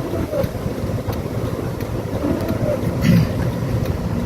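Steady low rumble of a vehicle driving along a road, mixed with wind buffeting the microphone, with a brief knock about three seconds in.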